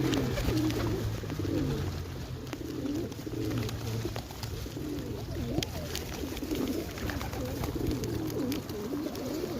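Several pigeons cooing continuously, their overlapping coos rising and falling, with scattered light clicks among them.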